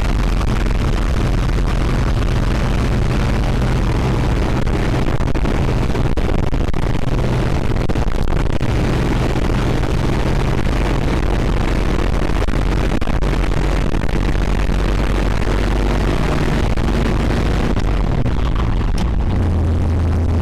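Old REO vehicle under way, a loud steady rumble of engine and road noise heard from on board; a strong low steady hum comes in near the end.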